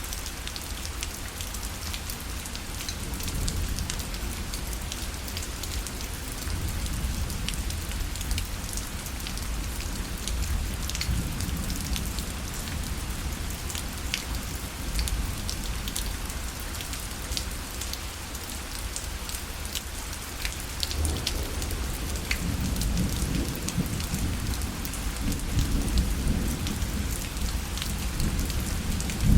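Steady rain pattering on a fabric parasol, with many distinct drops ticking on the canopy. A low rumble swells in the second half.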